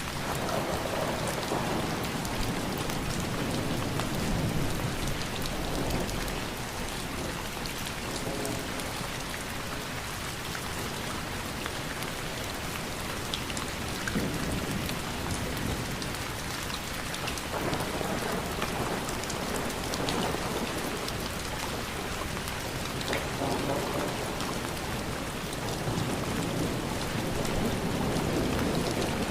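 Steady rain falling, with scattered single drops ticking. Low rumbles swell up under it several times, each for a second or two.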